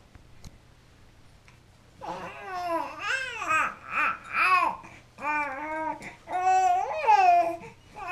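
A 15-week-old baby cooing and babbling: a string of about six short, high, pitched vocal sounds that bend up and down in pitch, starting about two seconds in after a quiet start.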